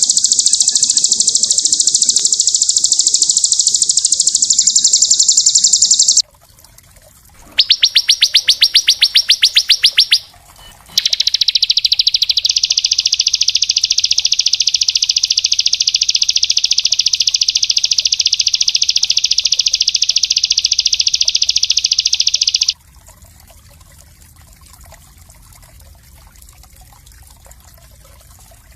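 Small songbird singing very fast, dense high trills: a long trill, a short break, a slower run of distinct rapid notes, then another long unbroken trill lasting about eleven seconds that cuts off suddenly near the end, leaving only faint background.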